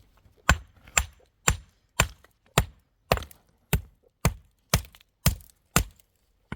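A steady series of sharp blows, about two a second and a dozen in all, each one short and crisp with silence between strikes.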